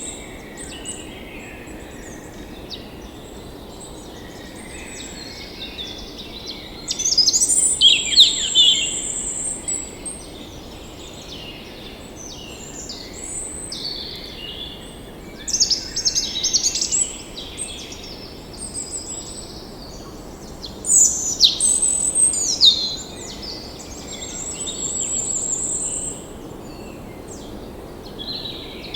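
Several wild songbirds singing and chirping over a steady background hiss, with bursts of song several times and a high trill near the end.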